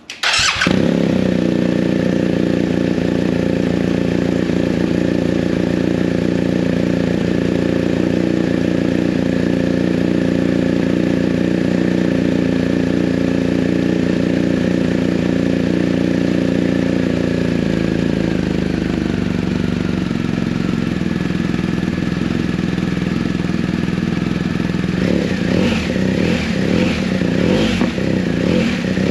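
BMW R 1250 GS Adventure's flat-twin boxer engine, fitted with an Akrapovic slip-on muffler on the stock headers, cold-starting and catching at once, then running at a steady fast idle. The idle settles slightly lower about two-thirds of the way through, and near the end a few quick blips of the throttle rev it briefly.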